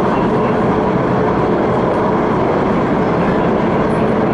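An MTR West Rail Line CRRC Changchun train running at speed, heard from on board: a steady rumble and rush of wheels on rail. A faint steady whine sounds for about the first second and a half.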